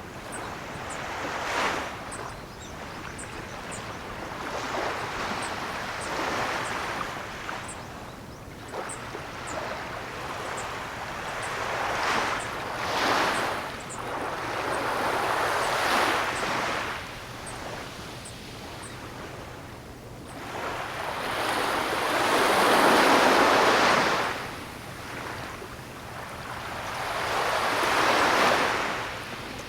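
Ocean waves breaking and washing on the shore, surging and receding every few seconds, with the biggest wave about three quarters of the way through.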